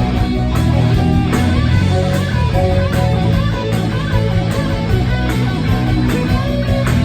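A live rock band playing loudly: electric guitars over a steady drum beat.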